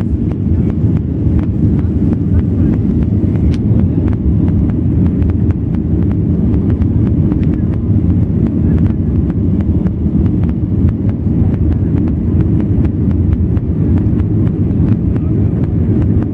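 Steady low roar of a Boeing 737-800's CFM56 turbofan engines and airflow heard inside the cabin, with light rattling ticks.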